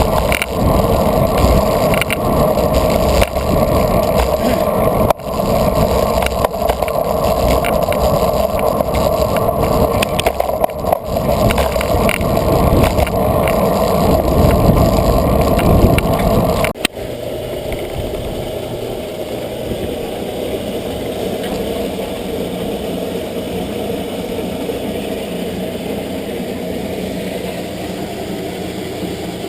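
Wind and road noise on a bicycle-mounted GoPro while riding a road bike, with a constant clatter of clicks from the loose camera mount. About seventeen seconds in it drops suddenly to a quieter, steadier rush.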